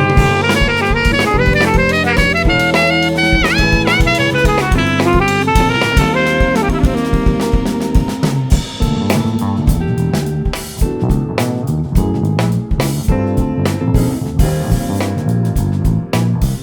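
Live jazz fusion band playing: a saxophone melody over drum kit and bass, with a bent note a few seconds in. About halfway through the melody line drops away and the drums and bass carry on.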